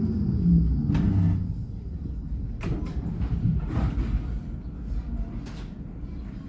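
Alstom NGT8D low-floor tram braking to a halt, its traction-drive whine falling in pitch and dying away about half a second in over a low running rumble. Once it stands, a few separate clicks and knocks sound over the low hum.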